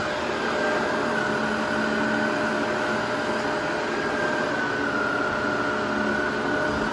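Vacuum cleaner running steadily: a constant rush of airflow with a high motor whine that wavers slightly in pitch.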